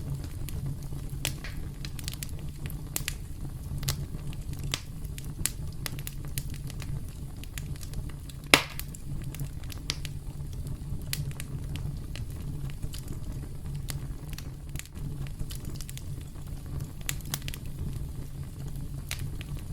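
Campfire burning with a low steady rumble and scattered crackles and pops from the wood, one loud pop about halfway through.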